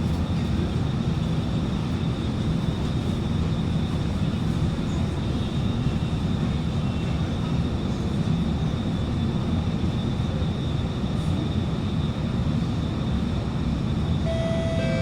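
Steady low hum of an Alstom Movia R151 train standing at an underground platform with its doors open, likely its air-conditioning and auxiliary equipment, with a thin high whine running through it. About a second before the end, chime tones start, the warning before the doors close.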